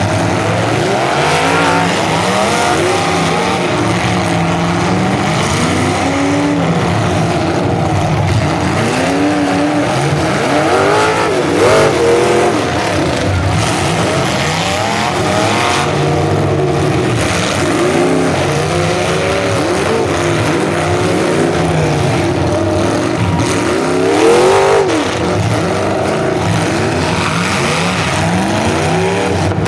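Engines of several full-size demolition derby cars revving at once, their pitch rising and falling over and over as the cars accelerate and back off, with louder surges about twelve seconds in and near twenty-five seconds.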